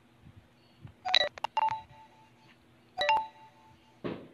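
Electronic phone ringtone: short groups of steady beeping notes, repeating in a phrase. A brief noisy scuffle near the end.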